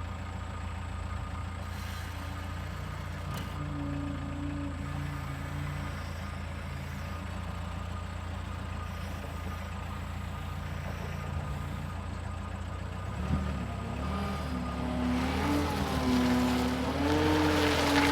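A 2007 Case 420 skid steer loader's diesel engine idling steadily. About thirteen seconds in it picks up and runs louder, its pitch rising and wavering as the machine is worked.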